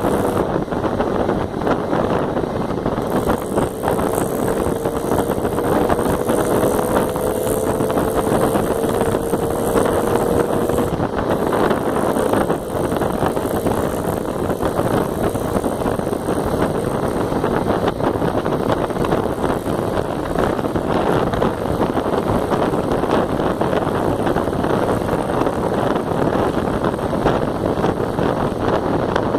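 Jawa motorcycle being ridden, its engine noise mixed with heavy wind buffeting on the microphone. A faint, slowly rising whine runs from about four to eleven seconds in.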